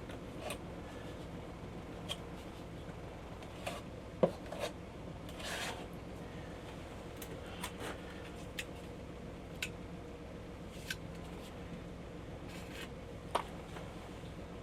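Faint strokes of a paintbrush working paint over a surface, with occasional light clicks and one longer scratchy stroke about five seconds in.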